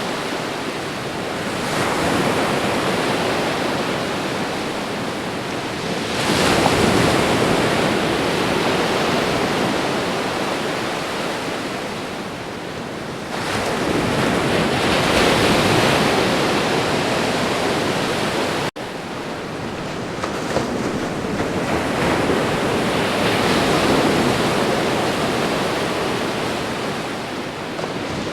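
Ocean surf: waves breaking and washing in, a continuous rushing noise that swells with each wave every few seconds, with a momentary cut about two-thirds of the way through.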